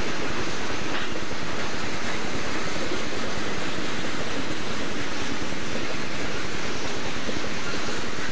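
Boxcars of a Southern Pacific freight train rolling past, a steady noise of wheels on rail.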